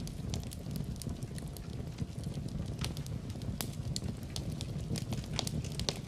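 Wood fire burning in a fireplace: a steady low rumble of the flames with irregular sharp crackles and pops, several over a few seconds.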